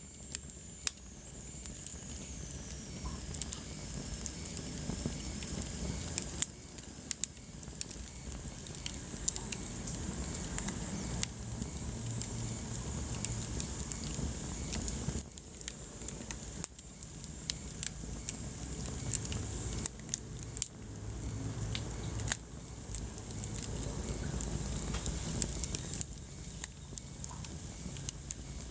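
Wood fire burning in a fireplace, crackling with irregular sharp pops and snaps over a low steady rumble of the flames. A faint high whistle glides down in pitch near the start.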